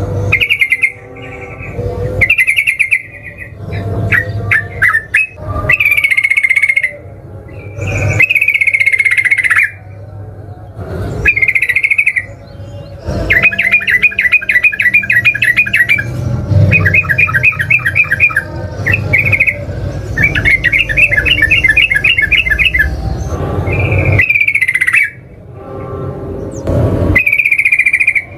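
Yellow-vented bulbul singing: short bubbly phrases repeated every second or two, broken in the middle by several long, fast rattling trills (the 'ropel' run), in a vigorous, continuous song.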